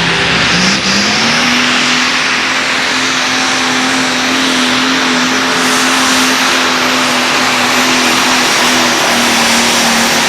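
Turbocharged diesel pulling tractor running flat out under load on a pull. Its engine note climbs in pitch during the first second or so, then holds high and steady and loud.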